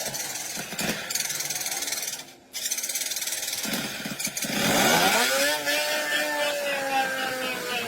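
Steady machine noise, cut off briefly about two and a half seconds in. About halfway through, a motor spins up, its pitch climbing quickly, then runs on steadily with a slight drift in pitch.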